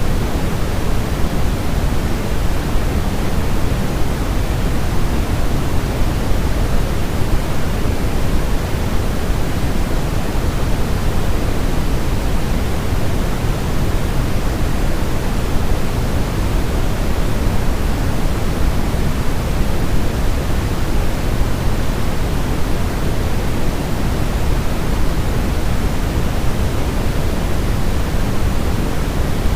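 Steady generated white noise for baby sleep, a constant rushing hiss that is heavier in the low end than in the highs. It never changes.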